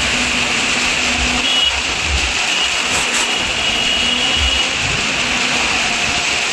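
Car engine running at speed as the car circles the wooden plank wall of a well-of-death drum, with a low rumble that swells and fades every second or so as it passes.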